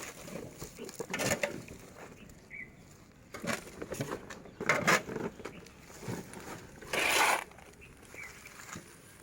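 Garden soil and compost being scooped and handled, in irregular bursts of gritty scraping and rustling, the longest about two-thirds of the way through.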